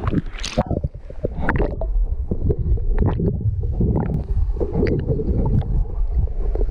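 Water splashing and sloshing around a person in the water, with a steady low rumble and a brighter splash about half a second in.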